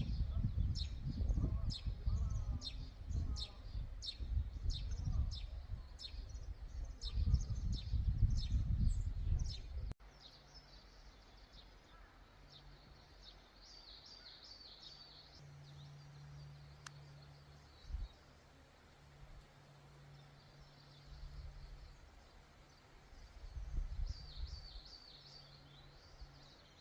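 Birds singing outdoors: first one bird repeating a short high note about two to three times a second over a loud low rumble, then, after an abrupt cut, quieter scattered chirping over a low steady hum.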